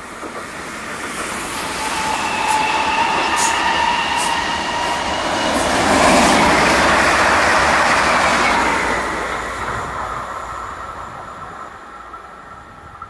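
An electric S-Bahn multiple unit approaches and passes at speed on the near track, with a steady whine and rushing rail noise. It is loudest about six seconds in, then fades as it runs away.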